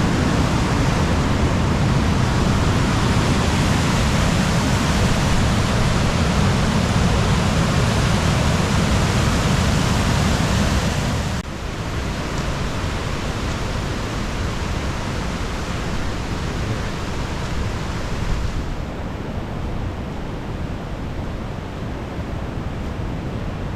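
Rain-swollen waterfall in heavy flow: a loud, steady rush of water. About eleven seconds in it drops suddenly to a quieter, softer rush, and the hiss loses more of its top a few seconds before the end.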